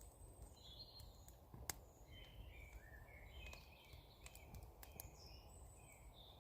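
Faint birdsong from small woodland birds, short chirps and trills going on throughout, with a few sharp clicks and a low hiss beneath.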